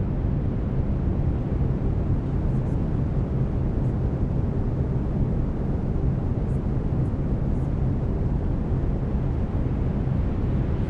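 Synthetic brown noise: a steady, deep rushing hiss with most of its weight in the lows, overlaid with a low steady tone from the binaural delta-wave beats.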